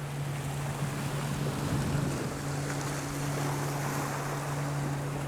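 Steady drone of a wave runner's engine towing a water-skier, under a haze of wind on the microphone and surf.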